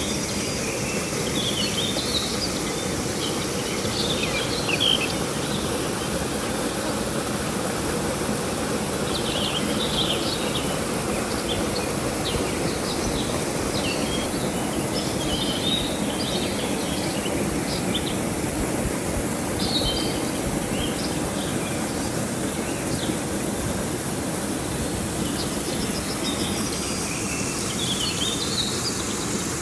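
River water running steadily, with short high chirping calls coming and going throughout.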